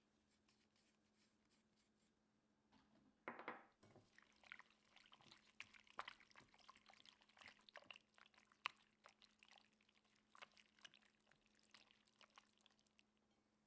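Faint kitchen handling sounds: a brief pour of liquid about three seconds in, then a long run of light, scattered clicks and taps of food and utensils being handled.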